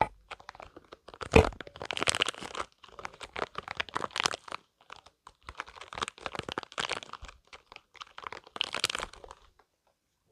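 Spiky rubber balls handled close to the microphone: squeezed and rubbed in bursts of dense fine clicking and scraping, with one sharp knock about a second and a half in. The handling stops about a second before the end.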